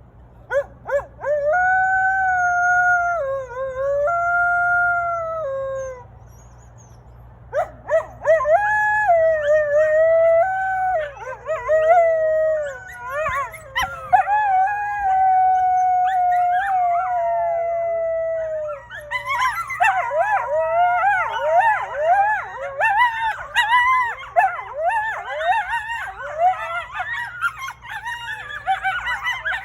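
Coyotes howling: one long wavering howl, then after a short pause several overlapping howls, which about two-thirds of the way through break into a fast, high-pitched chorus of yips.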